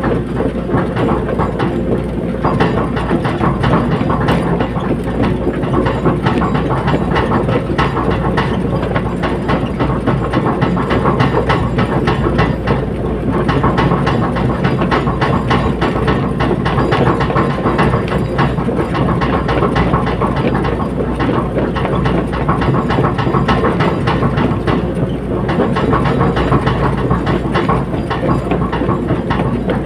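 Caterpillar 320D hydraulic excavator working: its diesel engine running steadily under load, with a dense, continuous rattle of metal clanks from the machine.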